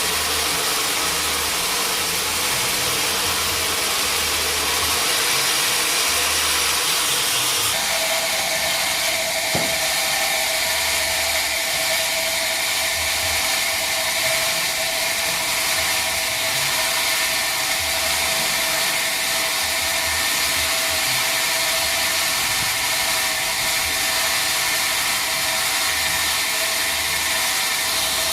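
Sawmill machinery running steadily with a loud hiss and a whine. About eight seconds in, the whine shifts to a new steady pitch, and there is a single knock shortly after.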